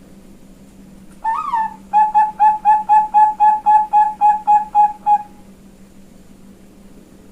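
A female Bangkok-type zebra dove (perkutut bangkok) cooing. It gives one opening note that rises and falls, then a run of about thirteen short, even coos at roughly four a second that stops about five seconds in.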